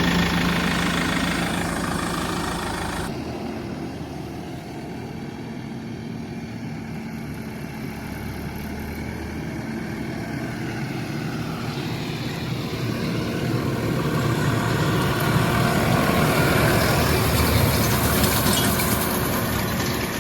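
New Holland T5.90 tractor engine running. About three seconds in, the sound changes abruptly, then it grows steadily louder, loudest a few seconds before the end.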